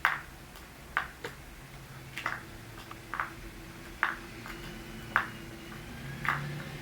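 Sharp, light taps on a hard floor, about one a second, seven in all, from a small toy being pecked and tossed by a budgie.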